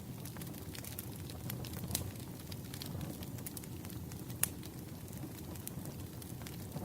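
Campfire crackling: a steady low rush of burning wood with scattered sharp pops, one louder pop a little past the middle.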